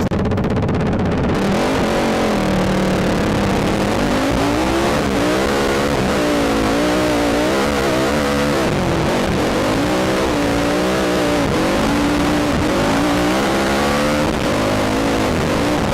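ATV engine revving up and down repeatedly while riding over sand, with a steady hiss of wind on the helmet camera's microphone.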